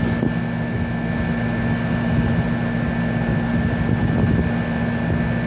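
High-efficiency air conditioner's outdoor unit running with its three-bladed fan: a steady hum with a constant low tone and a fainter high whine over the rush of the fan.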